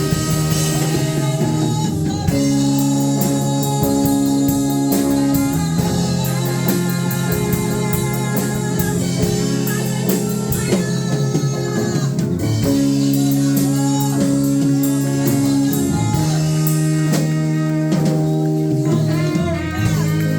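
Live worship band playing an instrumental passage: electric guitar over sustained chords with drum kit keeping a steady beat.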